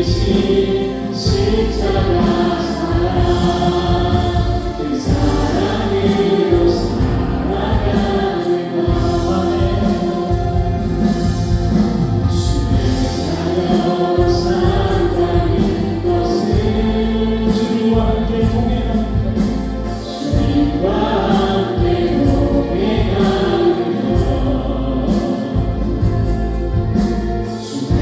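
A live church praise band playing a worship song: several voices singing together over keyboards, bass, electric guitar and drums, with a steady beat.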